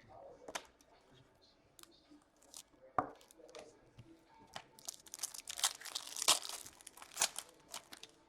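Foil wrapper of a hockey card pack being torn open and crinkled, densest and loudest in the second half, with a few sharp clicks earlier on.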